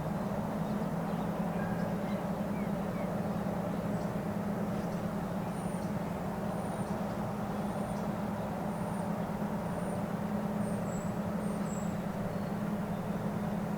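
Steady outdoor background hum, low and even, with a thin high chirp repeated about once a second through the middle of the stretch, like a small bird calling.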